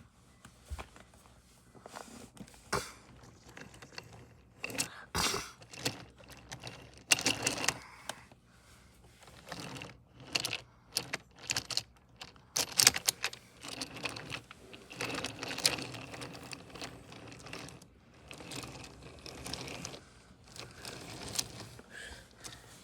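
Irregular clicking and rattling of small hard objects, with a few louder clatters through the middle.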